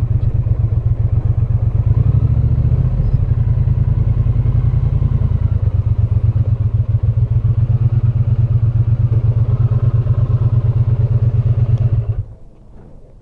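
Triumph Bonneville's parallel-twin engine running at low speed with an even, rapid low pulse, then switched off and stopping suddenly near the end.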